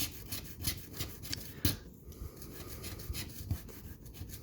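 A coin scraping the scratch-off coating of a paper lottery ticket in repeated short strokes, a few a second. The coating is hard to get off, and the coin barely scratches it.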